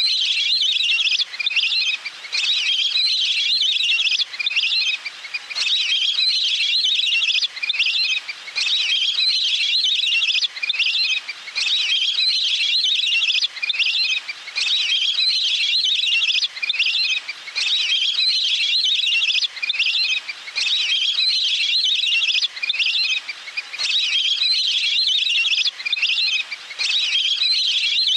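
Little grebe calls: a high, fast trill repeated over and over in phrases a second or two long with short breaks between them, a call recording of the kind played to lure grebes in.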